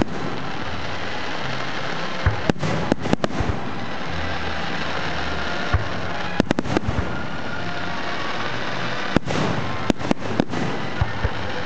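Fireworks going off: sharp bangs come in quick clusters every few seconds over a steady, dense background noise.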